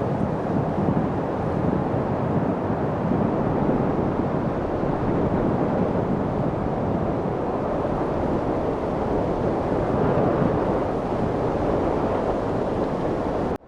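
Steady wind noise, an even low rush with no distinct events, cutting out briefly just before the end.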